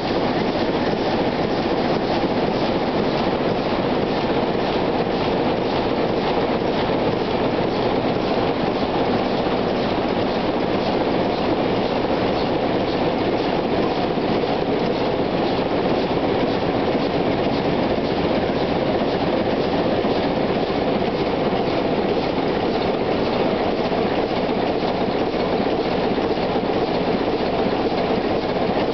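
Chicago Pneumatic 800 hp inline eight-cylinder diesel engine running steadily at constant speed, held there by its hydraulic governor, with a dense, fast clatter of firing strokes.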